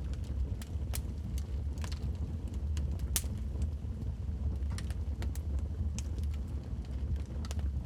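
Logs burning in a fireplace: irregular sharp crackles and pops over a steady low rumble of the fire, with one louder pop about three seconds in.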